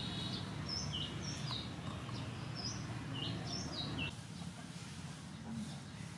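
Small birds chirping: a run of short, high chirps, many in falling pairs, over steady background noise. The chirps stop about four seconds in, leaving only the quieter background noise.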